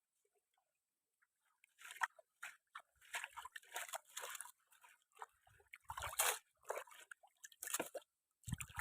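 Irregular crunching and scraping noises that start about two seconds in, with a few dull thumps near the end.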